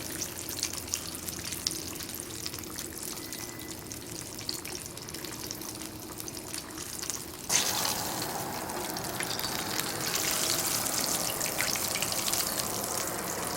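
Breaded Spam steak frying in hot oil in a pan, a crackling sizzle. About halfway through, the sizzle suddenly gets louder and brighter.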